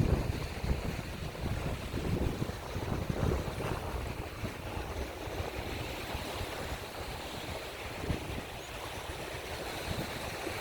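Wind buffeting the microphone in gusts, strongest in the first few seconds, over a steady hiss of sea surf.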